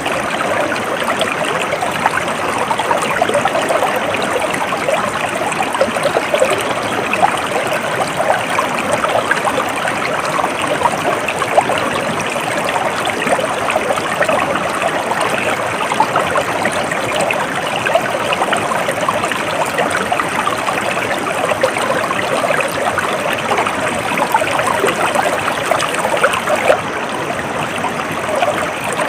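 A stream of water flowing and trickling steadily, with a continuous bubbling babble.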